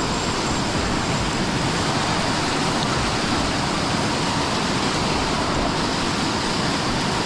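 Steady rushing of water from a waterfall on a flooded river, an even noise with no let-up.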